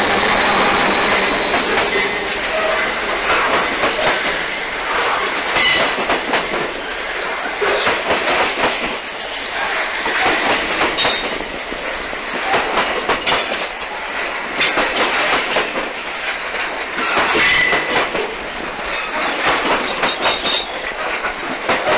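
Freight train of covered grain hopper wagons rolling past at close range: steel wheels clattering over the rail joints, with a few brief high-pitched wheel squeals.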